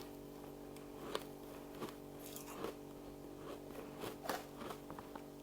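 A person biting and chewing frost close to the microphone: a run of irregular crisp crunches, over a steady low hum.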